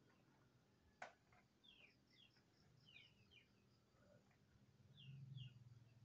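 Near silence outdoors with faint, repeated short falling bird chirps, a sharp click about a second in, and a faint low hum near the end.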